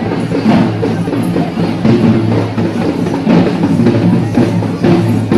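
Sri Lankan perahera drumming: loud drum strikes over a pitched instrument holding steady notes.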